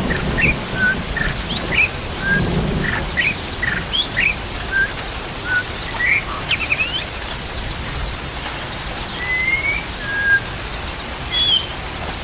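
Many short bird chirps and whistles, some rising or falling in pitch, over a steady hiss of rain, with a low rumble about two to three seconds in.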